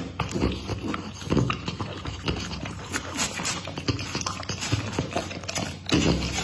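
Pit bull chewing and crunching a large piece of meat, with irregular wet smacks and sharp clicks of its teeth.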